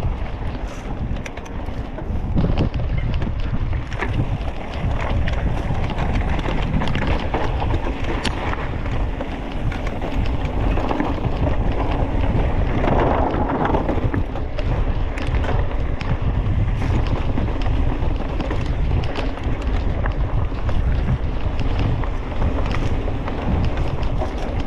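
Wind buffeting the microphone of a camera carried on a moving bicycle: a steady, low rumbling rush, with a somewhat louder stretch about halfway through.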